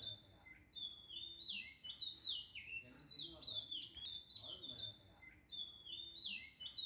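Birds chirping: quick runs of high whistled notes, each sliding downward, repeating in the same pattern every few seconds over a faint steady high trill.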